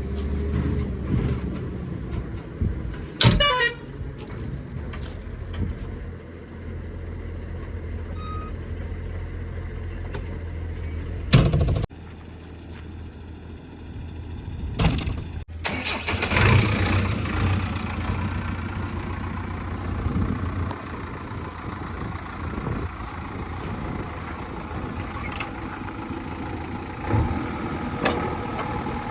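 Diesel engine of a JCB 3DX backhoe loader running with a steady low hum, with a few sharp knocks around the middle and a louder, broader noise from just past the middle onward.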